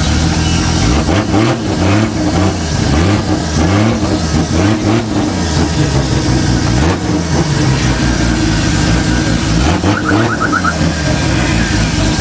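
Nissan Skyline GT-R R32's twin-turbo straight-six heard from inside the cabin, revved up and down again and again for the first several seconds, then running more steadily. A short run of quick high ticks comes near the end.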